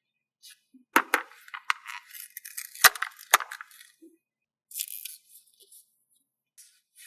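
Handling of paper stickers and sticker sheets: a few sharp taps with crackly crinkling between them, then a brief rustle about five seconds in.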